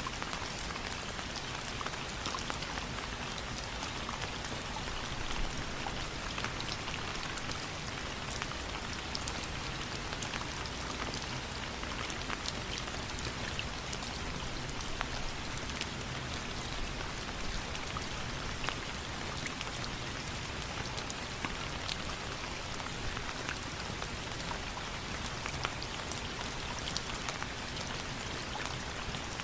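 Steady rain falling, a constant hiss with many small sharp drop ticks scattered throughout.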